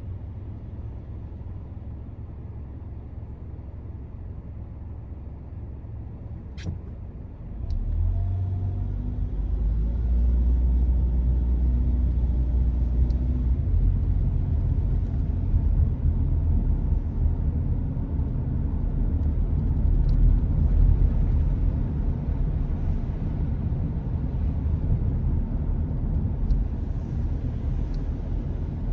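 A car driving along, its low road and engine rumble growing clearly louder about eight seconds in and staying heavier after that. A single sharp click comes shortly before the rise.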